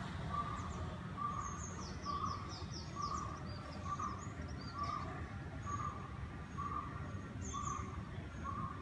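Birds calling: one repeats a single note about every 0.8 seconds, while another gives short runs of quick, high, falling chirps about a second in and again near the end, over a steady low rumble.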